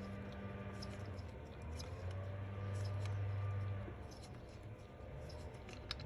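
Faint light clicks and taps of hand tools over a low hum that grows louder for a second or so around the middle.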